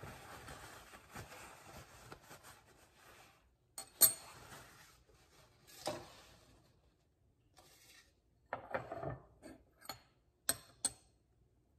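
Hard objects handled by hand, clinking and knocking: a faint steady hiss at first, then a sharp clink about four seconds in, another near six seconds, a short run of knocks around nine seconds and two quick clicks near the end.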